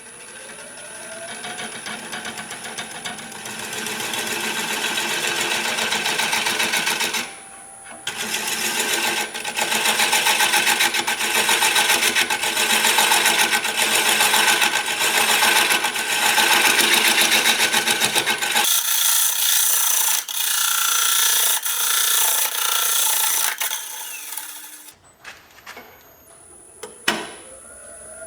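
Wood lathe spinning up with a rising whine, then a tool working against the spinning wood with a steady, fluttering noise. The noise breaks off briefly about seven seconds in, and later turns thinner and brighter for several seconds before dying away near the end.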